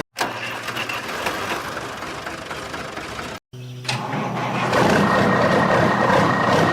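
Vehicle engine sound running, broken by two short silent cuts, one just after the start and one about halfway. It gets louder and fuller in the second half, with a steady high whine added.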